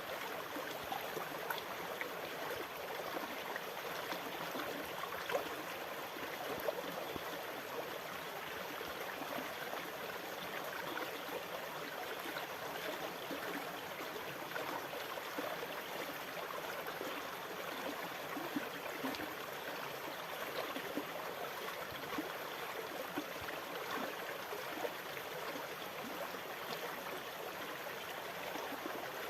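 Water splashing and gurgling steadily, with fine crackling detail and no rise and fall of breaking waves.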